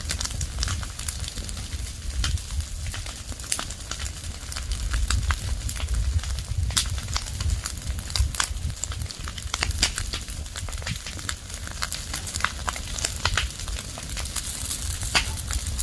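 Fire of dry leaves and twigs burning, crackling with frequent sharp irregular pops over a low rumble.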